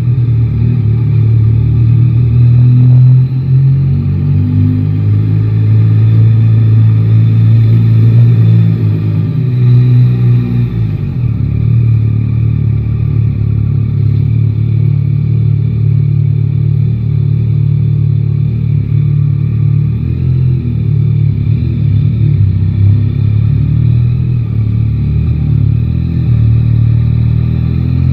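Yamaha Tracer 9 GT's inline three-cylinder engine running on the move. The revs fall about ten seconds in, then hold steady.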